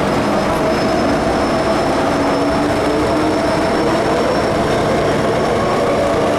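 MTR Metro-Cammell M-Train electric multiple unit running, heard from inside a carriage: a steady, loud rumble with a thin high whine and fainter lower hums held through it.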